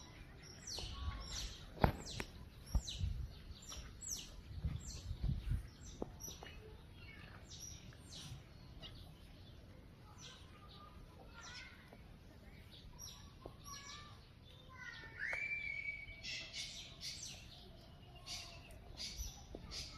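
Many short, high-pitched chirps, some repeated quickly, with a brief held whistling note about three quarters of the way through. There are a few dull thumps in the first few seconds.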